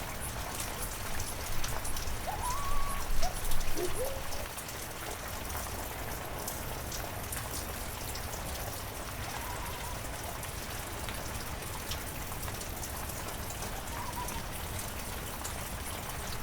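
Steady heavy rain falling, with individual drops ticking. A few brief sliding tones sound over it, loudest about two to four seconds in and fainter later.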